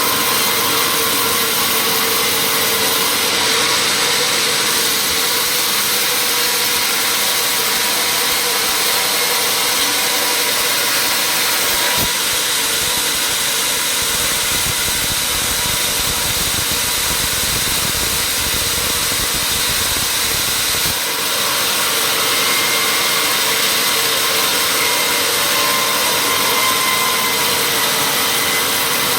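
Workshop machinery running steadily: a motor hum under a loud, hissing whir. A deeper rumble joins for several seconds in the middle, then drops away.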